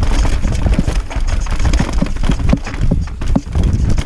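Mountain bike descending a rough downhill trail: a steady low rumble from wind on the microphone and tyres over dirt and rock, with many short knocks and rattles from the bike.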